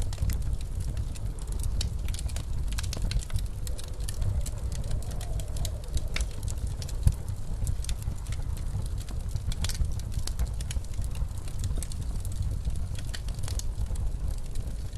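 Wood fire crackling with frequent small pops and one sharper pop about halfway through, over a steady low rush of blizzard wind.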